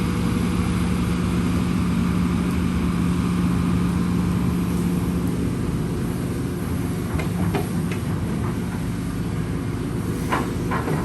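Heavy machine's engine running steadily with a low, even hum, with a few short knocks in the second half.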